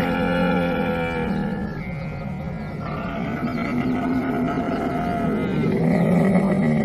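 Camel calling in long, drawn-out calls. The calls ease off about two seconds in, then build again to their loudest near the end.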